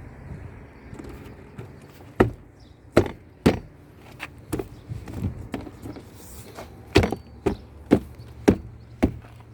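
Sharp knocks of a Kia Optima door trim panel being struck by hand to seat it on its plastic retaining clips. There are a few spaced blows at first, then a steady run of about two a second near the end.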